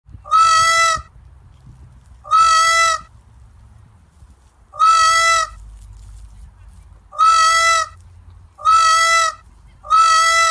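A goose honking six times, each honk under a second, at uneven intervals of one to two and a half seconds, over a low background rumble.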